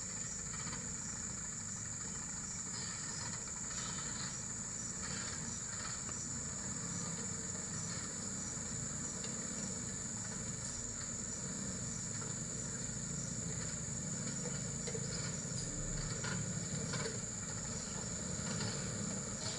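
Steady high-pitched insect chorus over the low rumble of a truck engine running.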